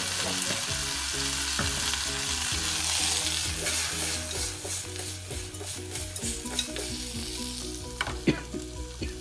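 Vegetables coated with sambar powder sizzling in a hot stainless steel pot as they are tossed and stirred, with a couple of sharp knocks near the end.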